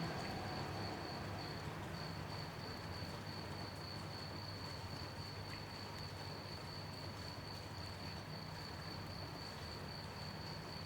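Crickets chirping in one steady, unbroken high trill that drops out briefly about two seconds in, over a soft even hiss of light night rain.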